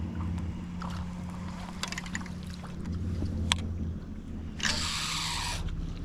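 A boat motor hums steadily and low. A few sharp clicks come in the middle, and near the end a loud hissing rush lasts about a second.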